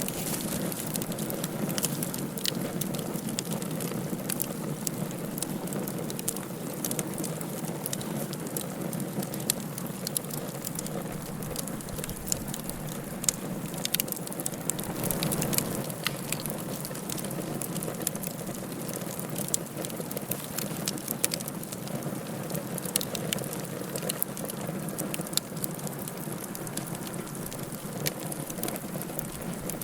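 Wood fire burning in a fireplace, crackling steadily with frequent sharp, irregular pops over a continuous hiss.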